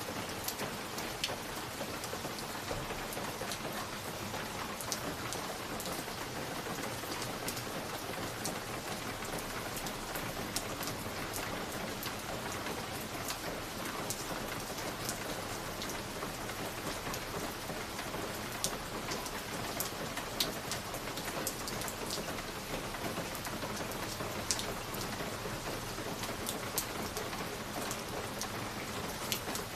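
Wood fire crackling in a fireplace: a steady soft hiss with many scattered sharp pops and snaps.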